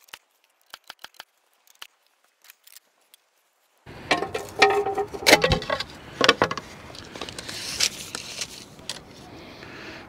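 A few faint clicks, then about four seconds in a jangling metallic clatter with sharp knocks, like tools or hardware being handled during deck building.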